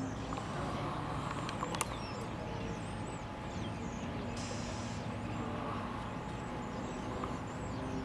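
Small birds chirping again and again over a steady low rumble of engines and traffic, with one sharp click about two seconds in.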